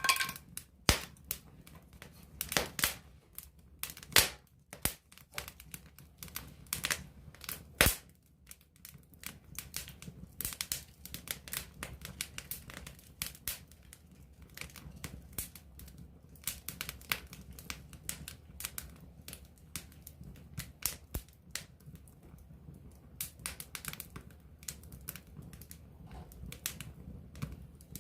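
Wood campfire crackling and popping close up: irregular sharp snaps, a few loud ones, over a low steady rumble of the flames.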